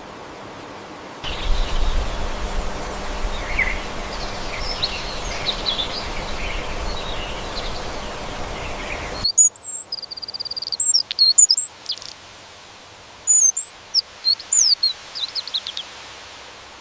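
Wild birds calling: first many small chirps over a steady outdoor hiss, then, after an abrupt change about nine seconds in, loud, clear high whistles with one held note and quick rising and falling sweeps.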